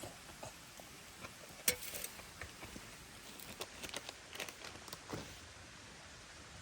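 Scattered light clicks and taps of a spoon and camp tableware being handled while eating, with one sharper click about two seconds in and a busier run of small taps in the middle.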